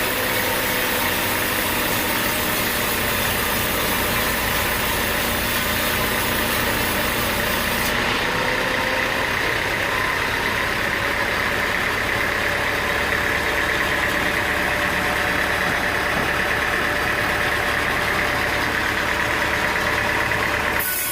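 Sawmill machinery running steadily with an even mechanical drone and a held high whine.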